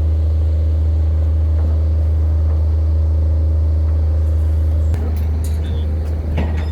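An engine running steadily with a loud low hum. About five seconds in its sound shifts slightly, and a few short metallic knocks come in near the end.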